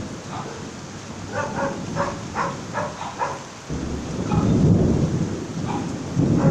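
Rain falling during a thunderstorm, with a deep thunder rumble swelling about four seconds in. In the first half a quick run of short pitched calls sounds over the rain.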